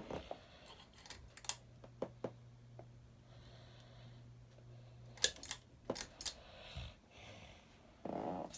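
Scattered sharp clicks and ticks as the ceiling fan is switched on to its low speed, with a faint low hum for about the first five seconds. A short breath near the end.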